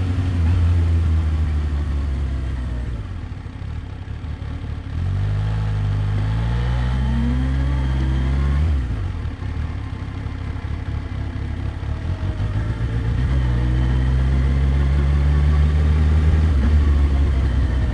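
Kawasaki Ninja H2's supercharged inline-four engine at low road speed. About five seconds in it pulls up through the revs, then drops off suddenly near the middle. It runs steadily for a while and rises again near the end.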